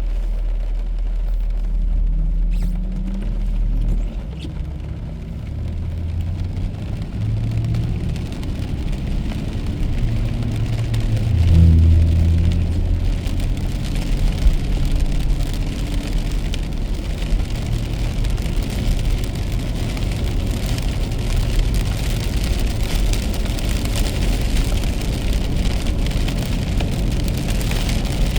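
A car driving in the rain: a steady low rumble of engine and road, with the engine note shifting in pitch during the first half. The hiss of rain and wet tyres grows stronger in the second half.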